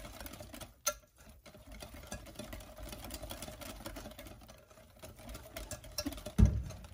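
Wire whisk beating batter in a glass measuring cup: a fast, even clatter of strokes, with one dull thump near the end.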